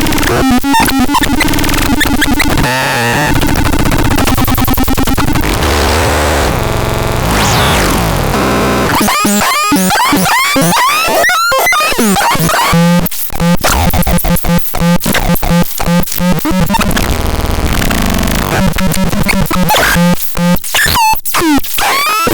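Harsh, chaotic synthesizer noise: dense glitchy textures full of rapid rising and falling pitch sweeps, with a pulsing low tone coming in about halfway through.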